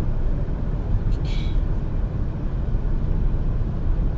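Steady low rumble of a car cabin while driving, with a brief hiss about a second in.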